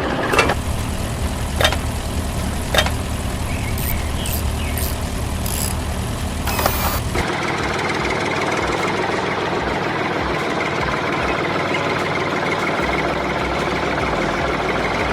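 Engine running steadily, with a few sharp clicks in the first few seconds. About halfway through, the sound changes abruptly to a different steady engine hum with less low rumble.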